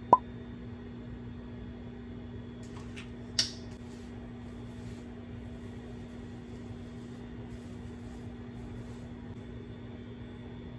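A steady low electrical hum from a household appliance, with a sharp click just at the start and a brief hiss about three seconds in.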